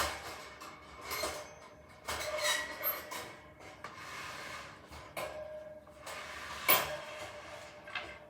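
Irregular knocks, scrapes and rustling of objects being handled, with a sharper knock near the end.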